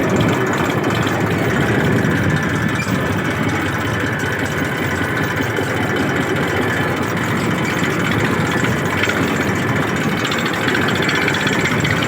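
Old tractor engine running steadily.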